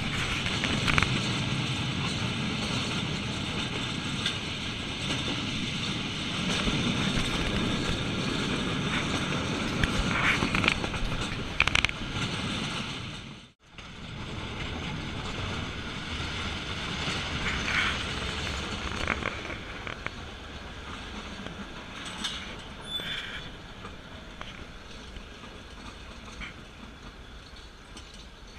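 Nilgiri Mountain Railway metre-gauge train running, heard from an open carriage window: a steady rumble and rattle of wheels on the track, with occasional clanks and knocks. The sound breaks off at a cut about halfway, then runs on quieter near the end as the train slows at a station.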